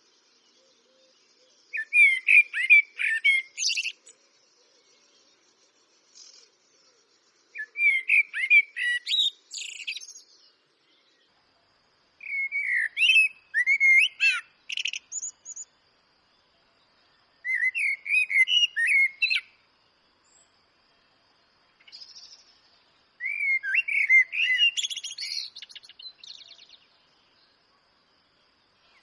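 Eurasian blackbird singing: five warbling phrases of about two seconds each, separated by pauses of about three seconds.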